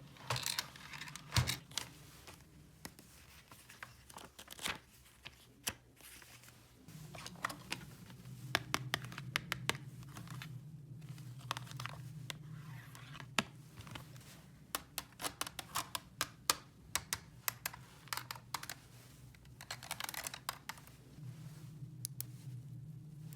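Handling noise: short stretches of crinkling and tearing, with many light clicks and taps, over a faint steady low hum.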